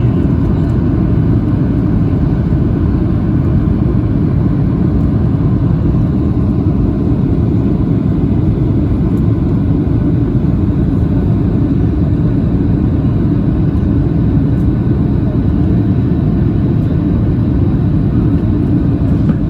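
Jet airliner cabin noise: a steady, even drone of engines and rushing air heard from inside the passenger cabin, low and unchanging.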